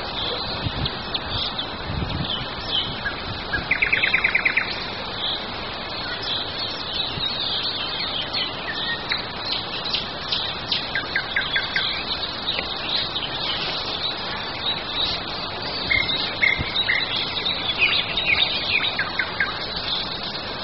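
Wild songbirds singing and chirping over a steady outdoor hiss, with a fast loud trill about four seconds in and more trills near the end.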